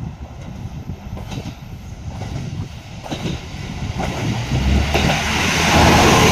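Shimabara Railway diesel railcar running along the track: a steady rumble of wheels on rail with a couple of clicks over rail joints, growing steadily louder from about four seconds in.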